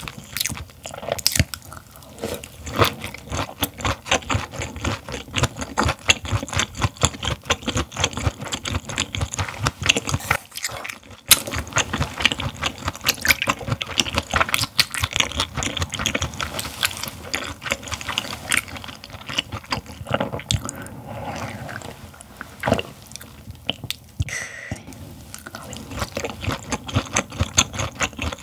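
Close-miked wet chewing and crunching of raw gizzard shad sashimi. Partway through, soju is poured from a glass bottle into a shot glass.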